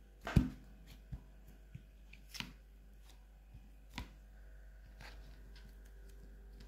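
Hands working modelling clay on a hard surface: scattered light knocks and clicks, the loudest about half a second in, then a few fainter taps.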